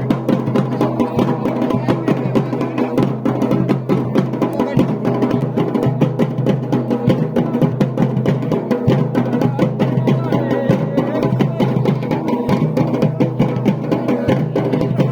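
Music led by fast, steady drumming, with a melody line over the drums.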